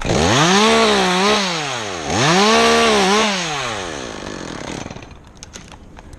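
Two-stroke chainsaw revved up twice in a row. Each time the engine pitch climbs, holds high with a brief dip, then drops back, and the saw dies down to near idle about five seconds in.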